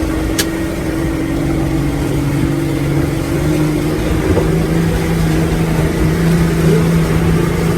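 Boat engine running steadily, picking up slightly in speed about three and a half seconds in, with a single click just after the start.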